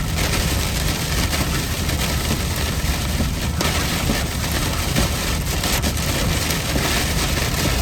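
Heavy rain beating steadily on a moving car, over a constant low hum of road and engine noise.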